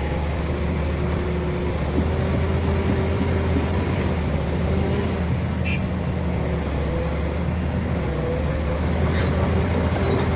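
Heavy diesel engine running steadily at low revs, a deep even drone, with one short sharp click a little past halfway.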